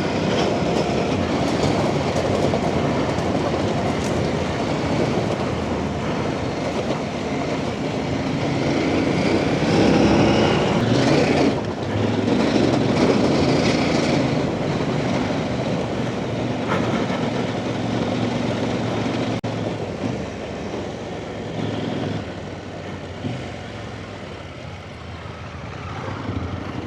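Off-road motorcycle running under way on a trail, engine noise mixed with rushing wind and rattle. It gets louder as the throttle opens partway through, then eases off again.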